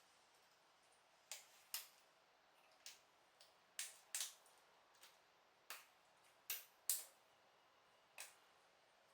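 Plastic LEGO pieces clicking as they are handled and pressed into place: about a dozen sharp clicks at irregular spacing, several in quick pairs.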